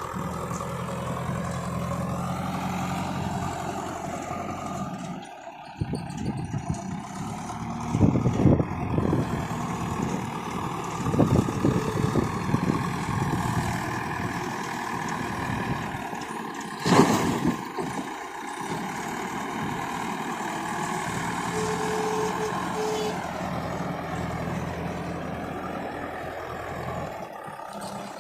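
Diesel engine of a JCB 3DX backhoe loader working, with several loud knocks and clanks from the machine at work, the loudest about seventeen seconds in.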